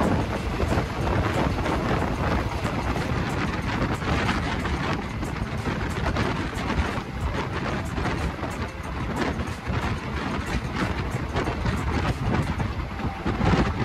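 Steady running noise of a moving passenger train heard from on board: a continuous low rumble and rush with faint clicks from the wheels and track.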